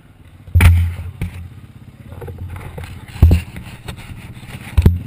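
Zabel 700 two-stroke sidecar-cross engine running at low revs, broken by three heavy thumps: one about half a second in, one past three seconds, and one near the end.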